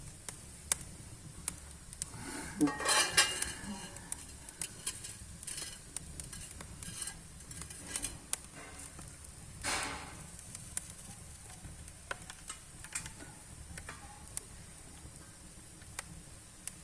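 Wood fire crackling in a fireplace: irregular sharp pops and snaps from burning logs, with a louder clatter around three seconds in and again near ten seconds.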